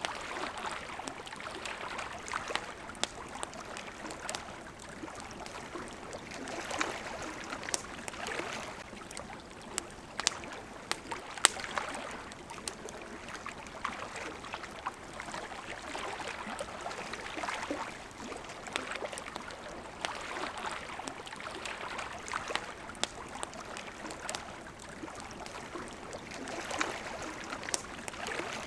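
Water lapping gently in slow swells every few seconds, with the sharp crackles and pops of a wood campfire scattered over it.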